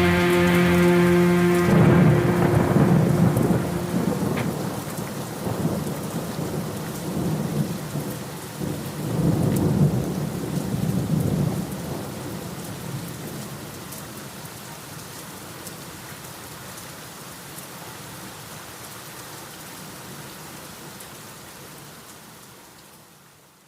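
Thunderstorm: steady rain with two long rolls of thunder, one about two seconds in and one about nine seconds in, then the rain slowly fades out. At the very start a held chord of the band rings out and stops.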